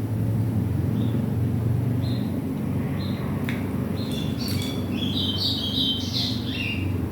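Birds chirping and squawking, the calls coming thicker in the second half, over a steady low hum. A faint click about three and a half seconds in.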